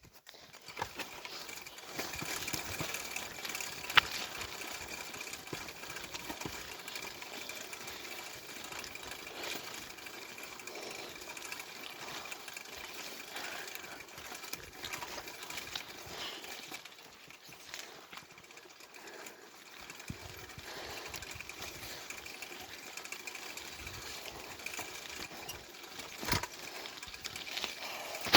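Bicycle in motion: a steady rattle and whirr from the chain, drivetrain and tyres, with a couple of sharp knocks, one about four seconds in and one near the end.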